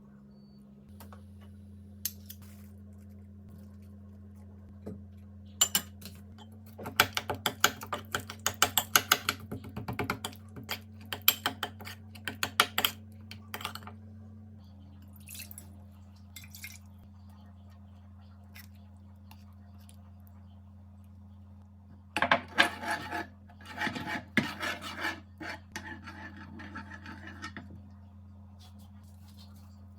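Kitchen clatter: dishes and utensils clinking and knocking in quick runs of sharp taps, in two spells, over a steady low hum.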